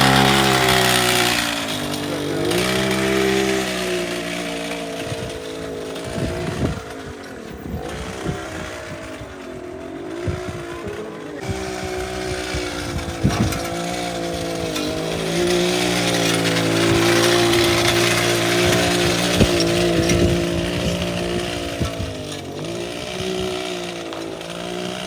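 Small mini bike engine running, its pitch rising and falling again and again as it is revved and ridden.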